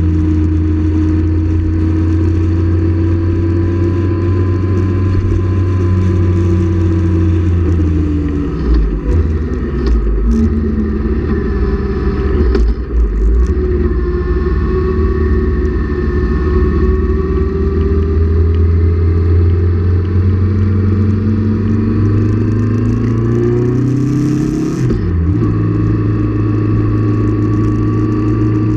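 Sport motorcycle engine running under way, heard from on board. Its pitch drops and breaks up about a third of the way in as it is shifted down from fifth to third gear, then climbs steadily, breaks briefly near the end and settles.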